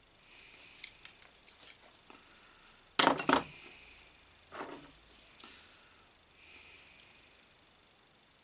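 Small clicks and rustles of tools and parts being handled on a workbench during wiring work, with one louder clatter about three seconds in.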